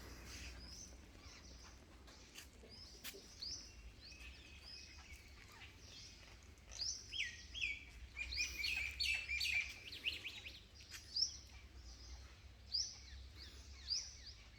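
Indian babblers chirping and chattering, scattered calls at first, then a busy run of quick repeated chirps from about seven to eleven seconds in.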